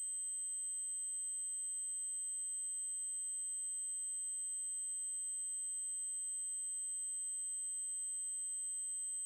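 Steady, high-pitched synthesized triangle-wave tone at 8192 Hz, held unchanged.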